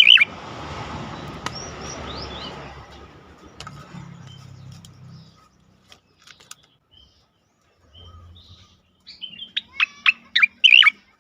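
Cica koreng (striated grassbird) singing in bursts of rapid, sharp chirping notes, one burst right at the start and a longer run near the end. A rushing noise with a few faint falling whistles fills the first few seconds.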